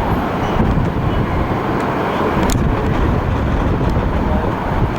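Steady, loud low rumble of vehicle noise with no clear engine tone, and a couple of faint clicks.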